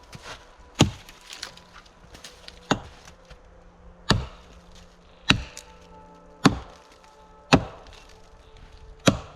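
Axe chopping off a tree branch: seven sharp blows at a steady pace of about one every second and a bit.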